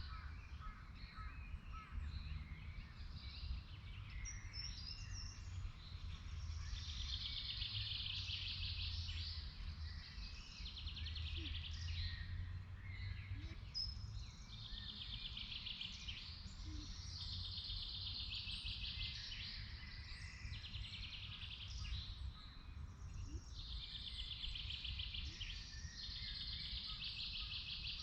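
A songbird singing short, fast trilled phrases, one every few seconds, over a steady low rumble.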